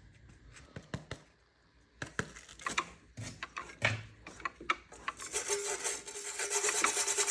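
Hand scraping and rubbing carbon and rust out of a small Briggs & Stratton mower engine's cylinder. Scattered scrapes and clicks at first, then steadier, denser rubbing from about five seconds in.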